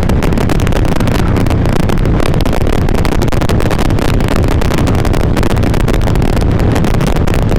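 Carbureted Harley-Davidson V-twin motorcycle engine running steadily at cruise, with wind rush on a helmet-mounted microphone.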